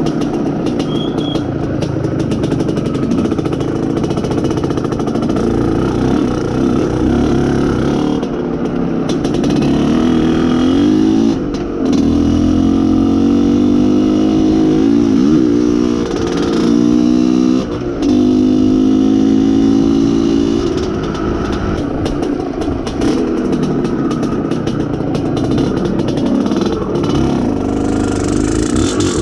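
IZh Planeta Sport motorcycle's single-cylinder two-stroke engine running under way. Twice in the middle it revs up in rising runs, with a brief drop at each gear change. The engine is being run in.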